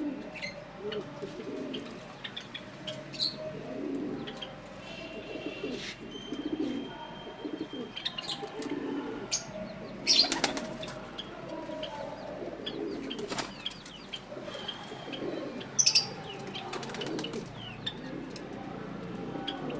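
Pigeons cooing over and over, with sudden bursts of wing flapping and short high chirps from small birds mixed in.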